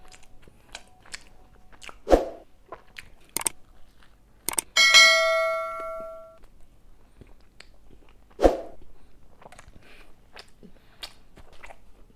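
Close-miked chewing and wet mouth clicks of a person eating stuffed garlic bread, with two louder thumps about two and eight and a half seconds in. About five seconds in, a bright bell chime rings for about a second and a half: the sound effect of an on-screen subscribe-button animation.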